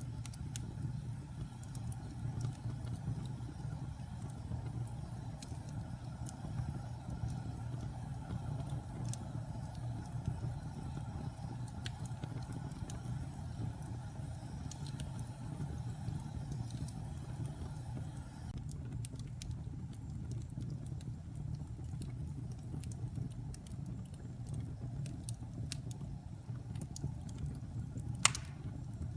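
Wood fire burning in a fireplace: a steady low rumble of flames with scattered small crackles, and one loud sharp pop near the end.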